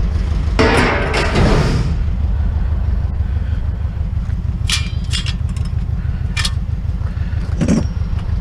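Truck engine idling steadily with a low, pulsing rumble. Over it comes a loud clatter about a second in, several sharp knocks around the middle, and another knock near the end.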